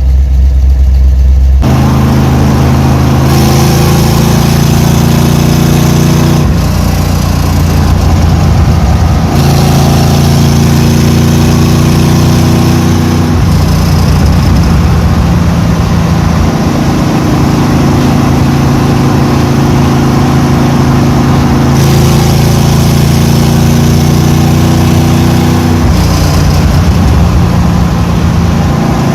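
Chevy 350 small-block V8 running, its engine note holding steady and then shifting to a new pitch every few seconds.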